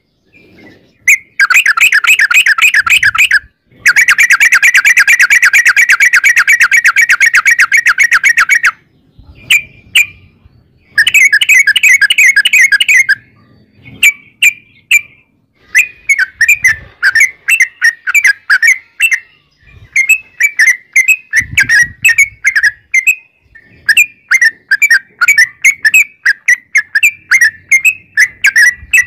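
Yellow-vented bulbul (trucukan) singing. It gives long, fast runs of rapidly repeated notes, the rolling 'ropel', in the first half, then a string of shorter chattering phrases.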